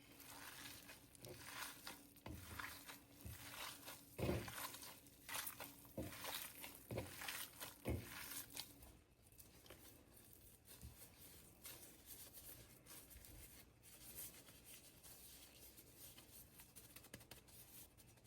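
Hands handling items with crinkling and rustling, mixed with light knocks, busiest in the first half and fainter after about nine seconds.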